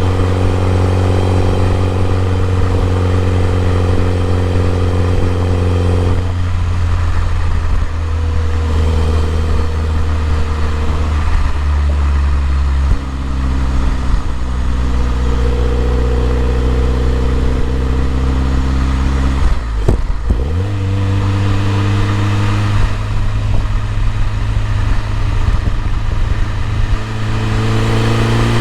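BMW E30 M3's S14 four-cylinder engine running at steady revs, its note stepping down in pitch a few times, dipping sharply and recovering about twenty seconds in, then climbing near the end.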